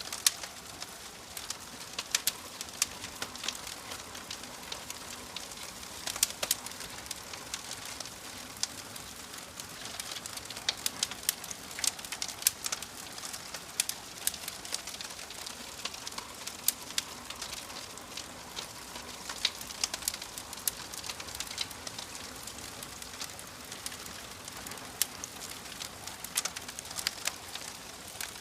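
Wood fire crackling: frequent sharp pops and snaps over a soft, steady hiss.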